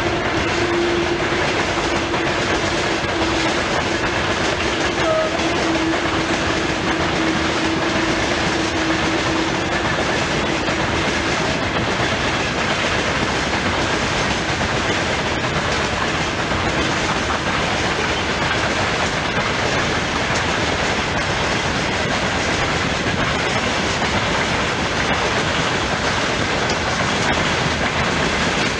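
Long freight train of open gondola wagons rolling past: the steady rumble of the wheels on the rails, with clickety-clack over the rail joints. A steady hum is also heard, fading out about ten seconds in.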